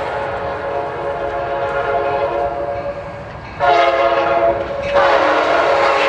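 Sounder commuter train's locomotive horn sounding a chord in long blasts. A held blast fades out about three seconds in, then two louder blasts follow, the second starting about five seconds in.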